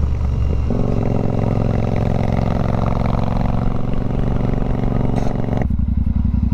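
Motorcycle engine running while riding; the engine note steps up about a second in and drops abruptly to a lower note near the end.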